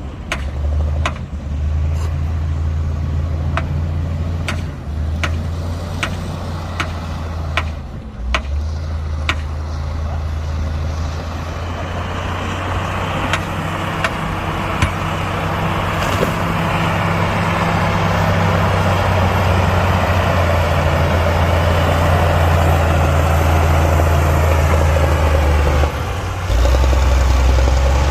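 Diesel engine of heavy earthmoving machinery running under steady load, with sharp metallic clicks and knocks in the first several seconds. The engine grows louder and harsher about halfway through, dips briefly near the end, then picks up again.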